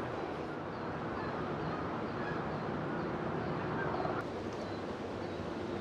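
Geese honking over a steady outdoor rumble.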